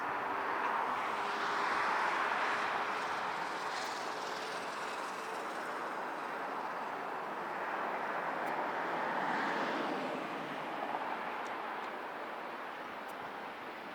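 Jet airliner engines as a plane passes, a steady rushing noise that swells and eases twice, with a faint steady whine in the first few seconds.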